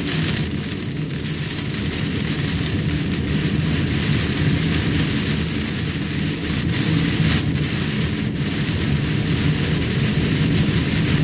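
Heavy rain on a moving car, heard from inside the cabin: a steady hiss of rain on the roof and windshield over the low, steady hum of the engine and tyres.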